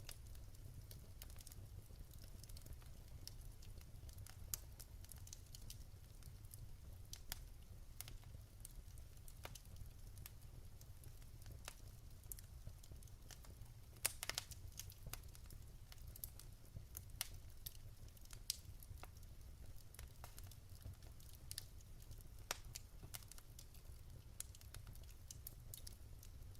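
Wood fire in a fireplace crackling faintly: scattered small snaps and pops over a low steady rumble, with one louder pop about halfway through.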